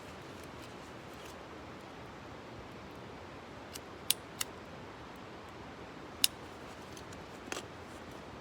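A faint steady hiss with a few sharp clicks or snaps: two close together about four seconds in, a single one a little after six seconds, and a short cluster near the end.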